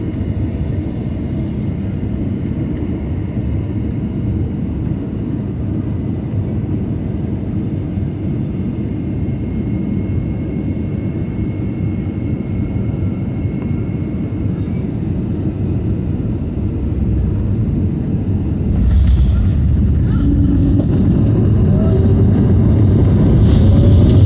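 Airbus A320neo heard from inside the cabin on landing: a steady rumble of airflow and its Pratt & Whitney PW1100G geared turbofan engines. The rumble grows louder about three-quarters of the way through, with some rattling, and louder again near the end.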